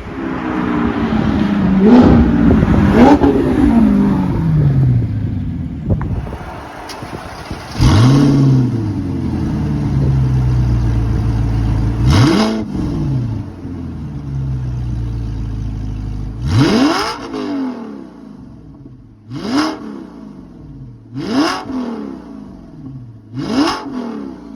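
Straight-piped, naturally aspirated V8 of an Audi R8 being revved: a few drawn-out revs in the first seconds, then about six short, sharp throttle blips, each rising fast and falling back toward idle, coming faster near the end.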